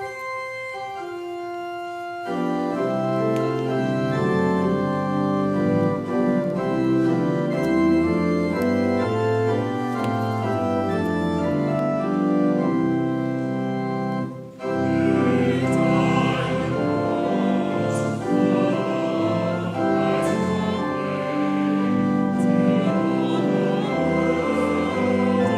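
Church organ playing, a single line of notes for about two seconds and then full sustained chords, with a short break about halfway through.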